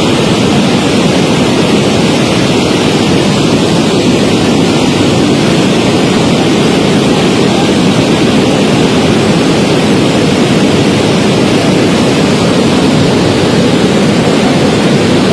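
Floodwater of the swollen Swat River rushing past: a loud, steady noise that does not let up.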